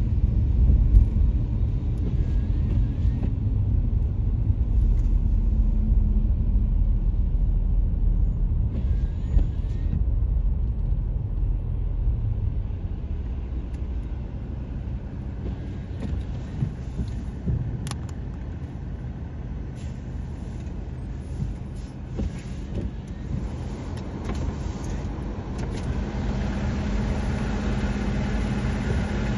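Car driving, a steady low rumble of engine and tyres heard from inside the cabin. The rumble eases off in the middle, and near the end a steady engine hum sets in.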